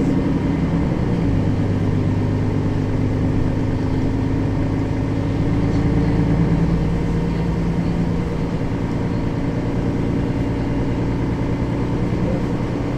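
Mercedes-Benz Citaro facelift city bus's diesel engine running as the bus drives between stops. The engine note shifts about a second in, pulls harder around six seconds in and eases off after about eight seconds.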